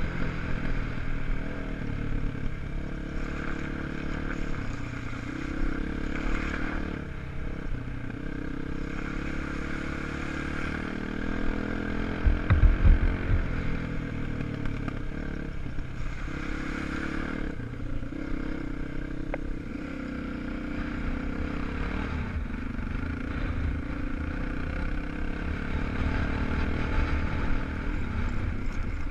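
250 cc single-cylinder enduro motorcycle engine, its revs rising and falling as it is ridden over rough ground, with some clatter. A few heavy low thumps come about twelve seconds in.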